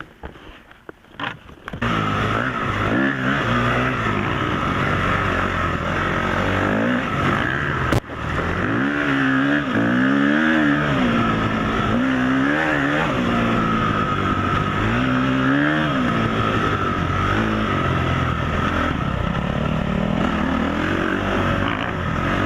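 Off-road motorcycle engine running under load, its revs rising and falling again and again as the bike is ridden over rough trail. It drops out briefly about eight seconds in.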